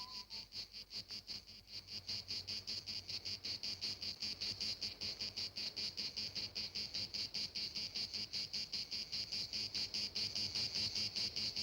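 A cricket chirping in an even, fast rhythm of about six or seven chirps a second, with a faint low hum beneath.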